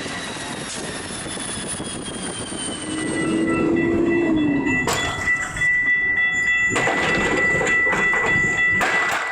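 Train passing close by with a steady rushing rumble of wheels on rail. About three seconds in a low tone sounds briefly and then drops in pitch, and from about halfway a steady high-pitched tone runs under the rumble, with a few sharp knocks.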